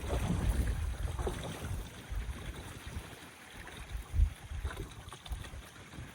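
Gusty storm wind buffeting the microphone in low rumbling blasts, with one hard gust about four seconds in, over the wash of wind-driven waves on the lake shore.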